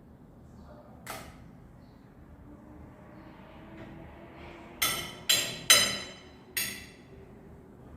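Tableware clinking as a meal starts: one sharp ringing clink about a second in, then four louder clinks in quick succession near the middle, each ringing briefly.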